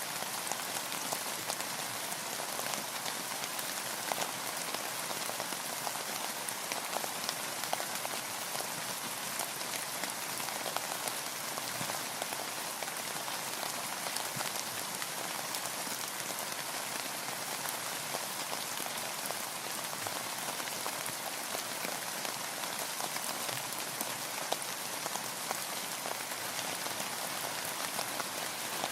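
Steady rain falling: an even hiss dotted with many small, sharp drop hits, mostly in the upper range with little low rumble.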